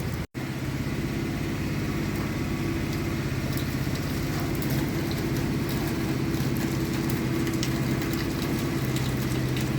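A steady low machine hum with faint scattered crackles over it, broken off for a moment just after the start.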